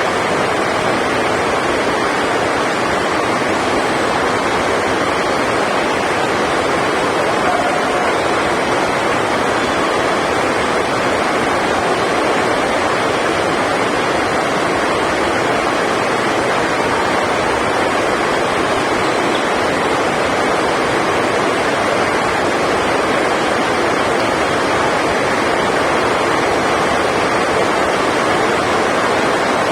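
Heavy rain on the sports hall's roof: a loud, steady rushing noise that does not change.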